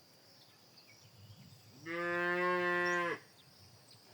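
A cow mooing once: a single steady call lasting just over a second, starting about two seconds in, over a faint high chirring of insects.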